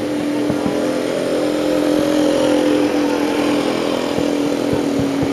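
Distant fireworks bursting as a scatter of short pops, over a loud, steady mechanical drone like a motor running.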